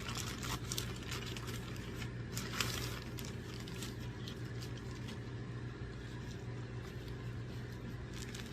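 Plastic parcel wrapping being handled and torn open, with scattered crackles and scrapes that are busiest in the first three seconds, over a steady low hum.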